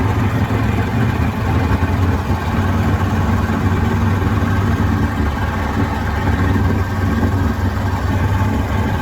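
Twin two-stroke jet outboard motors on a jon boat running steadily under way at speed.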